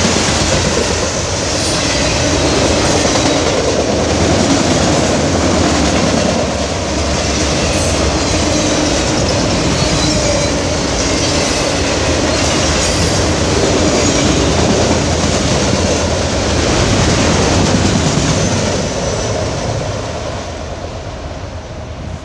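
A train rolling past on steel rails, a dense rumble and rattle of wheels and cars, steady for most of the time and then fading over the last few seconds.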